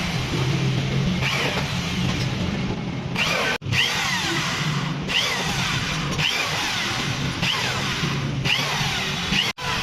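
A workshop tool working on the water dispenser, a repeated stroke about once a second over a steady low hum; the sound drops out abruptly twice.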